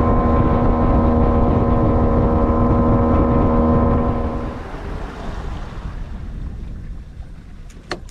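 A fishing boat's motor running steadily under way, then cutting back about halfway through, leaving wind and water noise. A sharp click near the end.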